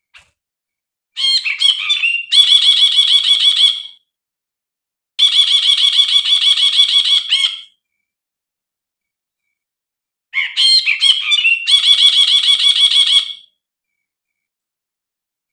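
A brinji, a bulbul, singing in three loud phrases. Each phrase opens with a few quick whistled notes and runs into a fast, rattling string of repeated notes lasting two to three seconds. There are pauses of a second or more between phrases.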